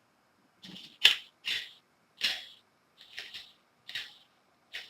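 The model locomotive's sound decoder playing its cab sound effect: a series of irregularly spaced mechanical clicks and clacks, each short and fading quickly.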